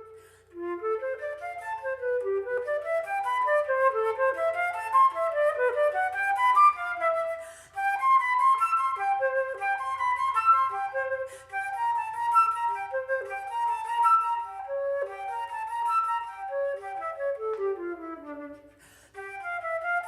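Solo flute playing fast, running melodic phrases, with a short break about eight seconds in and a descending run near the end.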